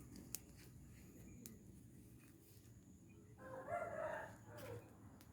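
A rooster crowing once, a single call of about a second and a half starting a little after the middle, over a quiet background with one sharp click near the start.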